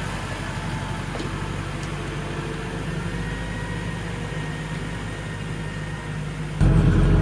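A farm machine's engine running steadily with a low, even hum. About six and a half seconds in, the engine sound turns suddenly louder.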